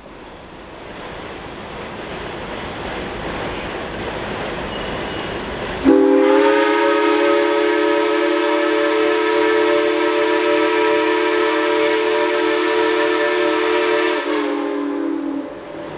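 Geared steam locomotive running, its noise growing louder, then a long blast on its multi-note chime whistle starting about six seconds in and lasting about eight seconds, several tones sounding together as a chord, before it tails off near the end.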